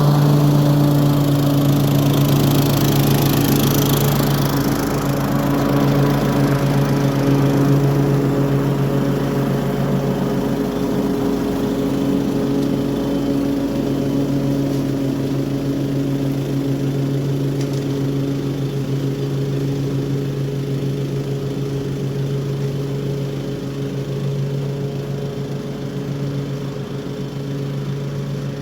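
Toro HDX 30-inch self-propelled walk-behind mower running steadily while mowing and mulching grass, a constant engine hum that grows slightly fainter near the end.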